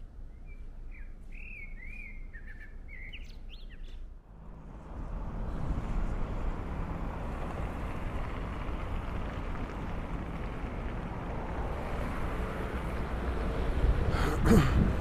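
A small bird chirping a quick run of short gliding notes. About four seconds in, the sound cuts abruptly to a steady outdoor rush of noise, with a sharp click near the end.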